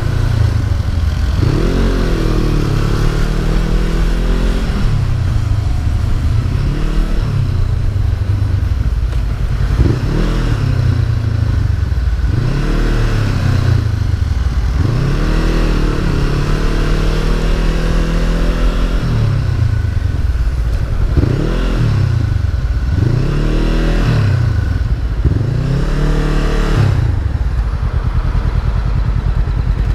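Honda CB500F's parallel-twin engine on the move, its pitch rising and falling about ten times as the throttle is opened and closed through the gears, over a steady low rumble.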